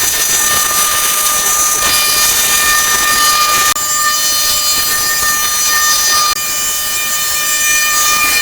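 A steady high-pitched mechanical whine over a loud hiss, broken off abruptly twice, about halfway and two-thirds of the way through.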